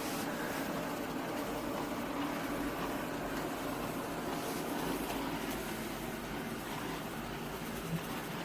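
eufy L60 robot vacuum running steadily, its suction motor and brushes a continuous whirring hum while it is caught on a power cable, with a light knock near the end.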